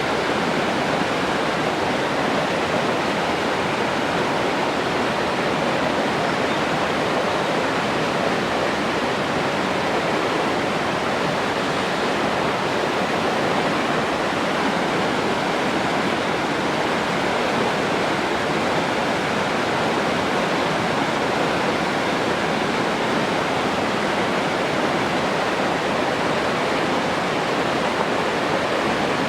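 Water from a spring flowing in a steady, unbroken rush, with no change in level.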